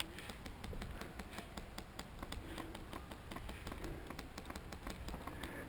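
Airsoft gunfire and BB impacts: faint, sharp, irregular clicks, several a second.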